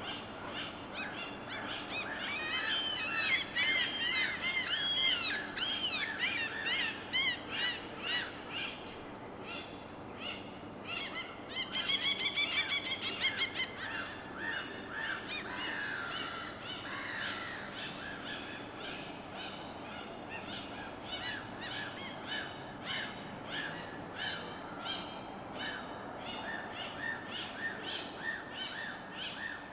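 Several birds calling and chirping over a steady wash of water. A flurry of arching chirps comes in the first few seconds, then a fast rattling trill, then a long run of short, even chirps.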